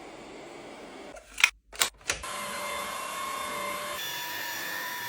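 A few sharp clicks, then a Eureka vacuum cleaner's motor running with a steady whine from about two seconds in.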